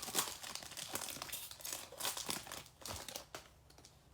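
Foil wrapper of a baseball trading card pack crinkling and tearing as it is opened by hand. The dense run of crackles dies away about three seconds in.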